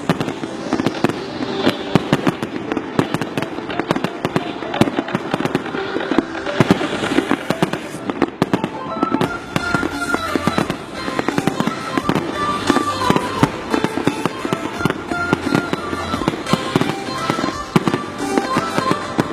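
Fireworks display: a dense, unbroken run of bangs and crackles from shells going off one after another, with music playing underneath, its melody clearer in the second half.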